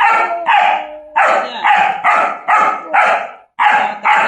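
German Shepherd barking over and over, about two barks a second with a short break near the end, the angry barking of a dog newly put on a chain.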